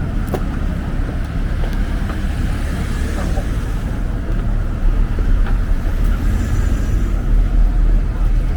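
Busy street ambience: a steady low rumble of road traffic, with wind on the microphone.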